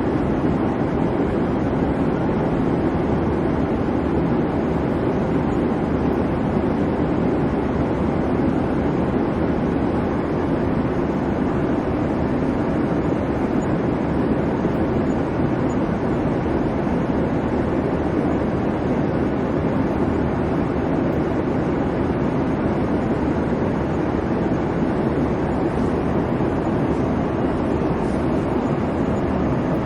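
Airplane cabin noise in flight: a steady, even rumble and hiss of engine and airflow, strongest in the low range, with no changes or events.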